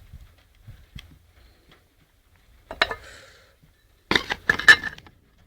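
Hard objects knocking and clinking, like dishes or glassware being handled: a sharp knock about three seconds in, then a second or so of dense clattering near the end.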